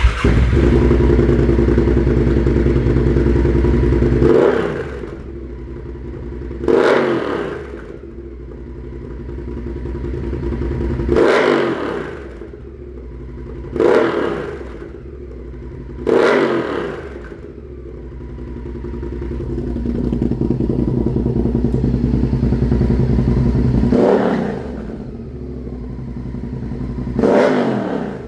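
Honda Varadero 1000's V-twin engine running through homemade exhaust silencers, idling loudly with about seven short throttle blips, each a quick rise and fall in pitch.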